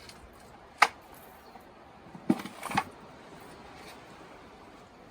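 Knocks from a beekeeping nuc box being handled: one sharp knock about a second in, then a quick cluster of two or three knocks about halfway through.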